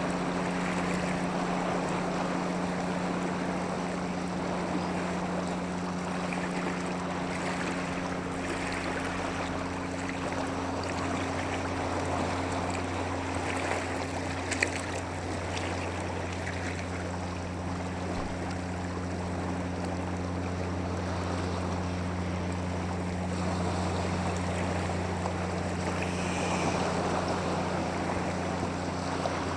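Steady rush of moving water with some wind, over a low steady hum, and one short sharp click about halfway through.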